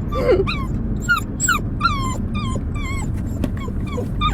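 Husky whining in a quick run of short, high cries, each sliding down in pitch, about two or three a second.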